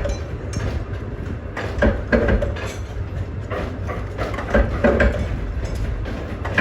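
Machinery clattering, with irregular knocks over a steady low rumble.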